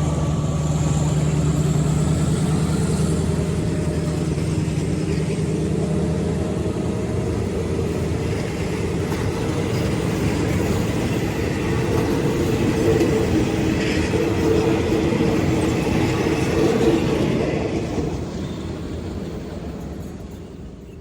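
Diesel-hauled passenger train moving through a station: the locomotive's engine drone and the rumble of the coaches hold steady, then fade near the end.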